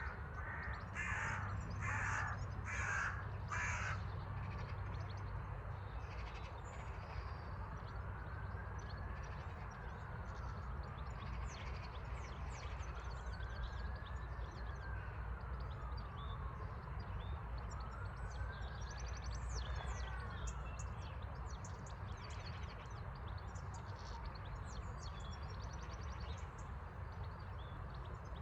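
A bird gives four loud, harsh calls about a second apart, while small birds chirp throughout. Later come three slow rising-and-falling tones, each lasting a few seconds, over a steady low rumble.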